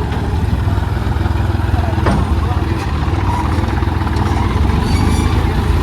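Tractor diesel engine running steadily under the loader work, with one sharp knock about two seconds in.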